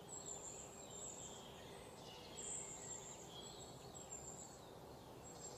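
Faint bird calls, a scatter of short high chirps and whistles, over quiet outdoor background noise.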